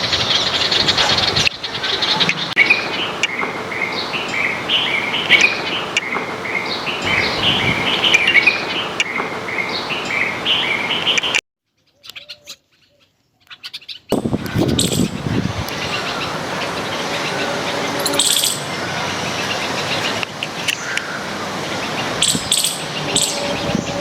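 Small songbirds chirping in quick repeated notes over a steady background noise. The sound cuts out for about two seconds near the middle, then returns with scattered high chirps.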